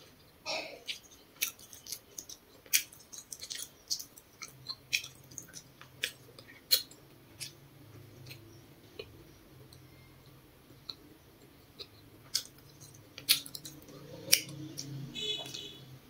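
Close-up chewing of grilled potato, with many irregular sharp mouth clicks and smacks.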